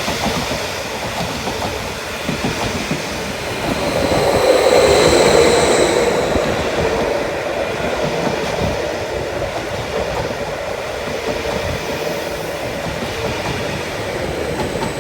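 Greater Anglia Class 745 electric multiple unit on the Stansted Express, passing through with wheels clattering over the rail joints. It is loudest about four to six seconds in, then fades gradually, with a faint high whine above the rumble.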